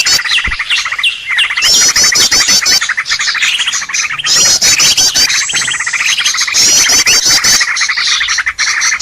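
Bird lure call recording: a dense chorus of small birds chirping and twittering. A rapid run of high, rising notes comes back about every two and a half to three seconds, as in a looped recording.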